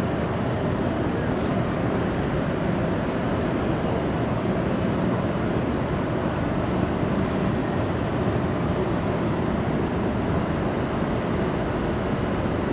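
Jet airliner's engines at takeoff power, a steady rumble.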